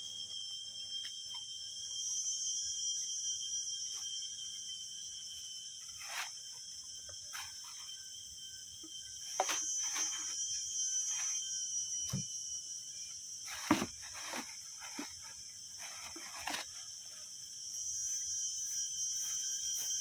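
Steady high-pitched insect chorus, with occasional short knocks and rustles.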